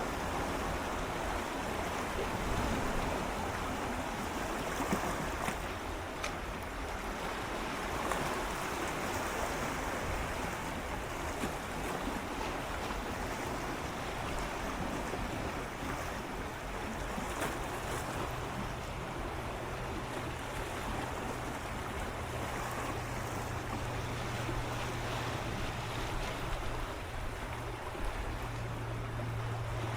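Gentle sea waves swirling and lapping against shoreline rocks close up: a continuous wash of water with no breaks. A low steady hum comes in about halfway and grows louder near the end.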